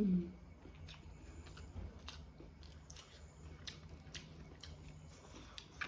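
Close-up mouth sounds of someone chewing a mouthful of egg curry and rice: soft, irregular wet clicks and smacks.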